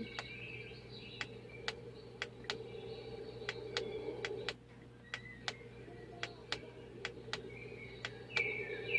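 Forest nature-sound track, with birdsong chirps, played from the small built-in speaker of a Feather the Owl diffuser. Sharp irregular clicks, about two a second, are the loudest part.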